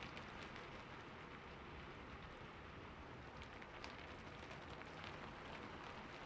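Steady soft rain falling on a roof, an even patter with scattered sharper drop ticks.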